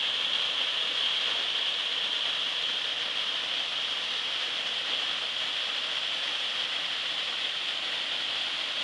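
Waterfall rushing, a steady unbroken noise of falling water.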